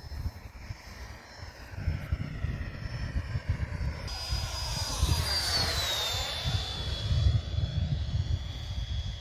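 Electric-ducted-fan model jet flying past: a high fan whine grows louder about four seconds in and drops in pitch as it passes overhead, then fades. Wind rumbles on the microphone throughout.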